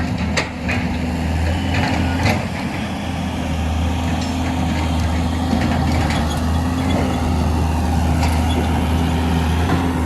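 Heavy diesel engine running steadily at a quarry excavation, with a couple of sharp metallic knocks in the first few seconds.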